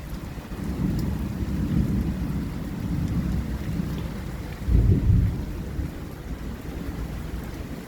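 Thunder rumbling low and continuous in a thunderstorm, swelling into a louder, deeper roll about five seconds in.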